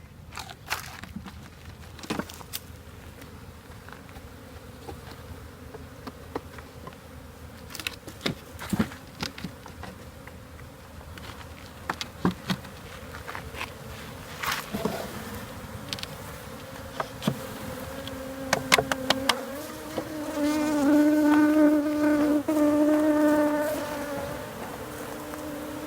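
Honeybees buzzing around an opened hive, a steady hum that swells much louder for a few seconds near the end as bees come close. Scattered clicks and knocks throughout.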